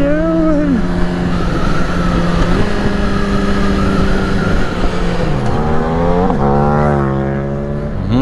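Yamaha R6 inline-four engine running under way, with wind rushing past the rider's helmet. About five seconds in the pitch drops, then it climbs steeply as the bike accelerates and holds at higher revs near the end.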